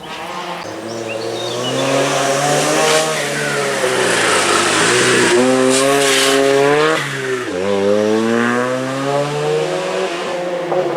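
Historic rally car at full throttle on a special stage, its engine rising in pitch as it approaches, with two upshifts a few seconds apart where the pitch drops and then climbs again as it accelerates away.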